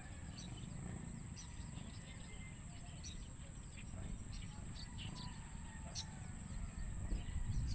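Outdoor ambience: small birds chirping here and there over a low wind rumble, with a steady high-pitched whine and a single sharp click about six seconds in.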